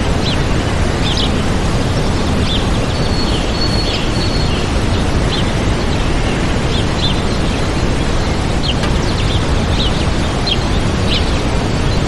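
Waterfall rushing steadily, with small birds chirping over it in short, scattered calls and one held whistled note about three seconds in.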